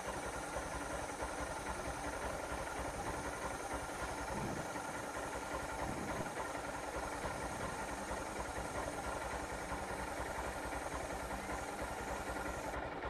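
Motorcycle engine idling steadily in first gear, driving the chain and rear wheel round.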